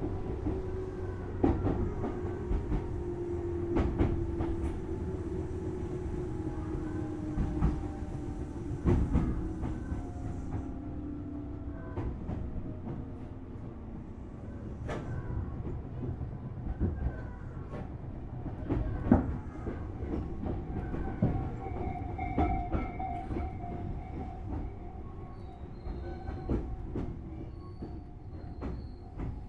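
Tobu Series 6050 resistor-controlled electric train heard from inside a motor car as it slows for a station stop. A whine from the running gear falls slowly in pitch over the first ten seconds or so, over a steady rumble with the click of wheels over rail joints. In the last third, steadier higher tones sound as it comes toward a stop.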